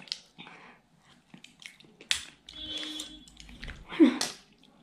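Close-miked chewing and smacking of curried butter clams, with small sharp clicks from the clam shells being handled. A brief voiced sound from the eater about four seconds in.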